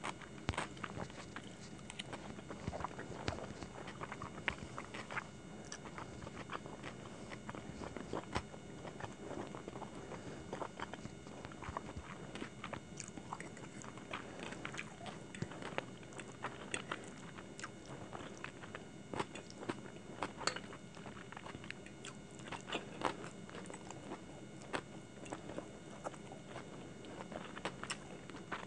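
Close-miked chewing of Hakka noodles and saucy chicken Manchurian. Wet mouth sounds come with many irregular sharp clicks and smacks.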